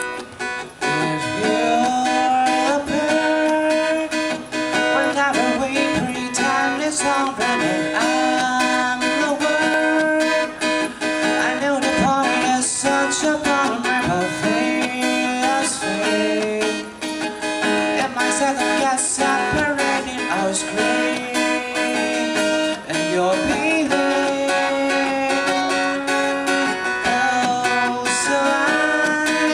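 Acoustic guitar played solo, strummed and plucked chords with sustained, sliding notes, as the introduction of a song.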